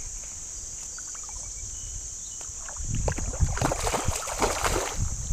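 Water splashing and sloshing in irregular strokes from about three seconds in, over a low steady rumble.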